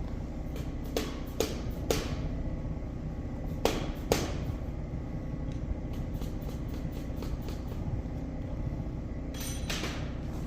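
Sharp knocks of a hammer driving the hydraulic cylinder's gland inward, to get it past the internal spring clip, with a run of faint light ticks in between. A steady low hum runs underneath.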